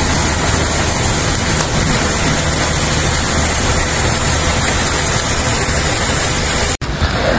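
Loud, steady rushing noise with a low hum beneath it. It cuts off abruptly near the end and gives way to a different, rougher rushing noise.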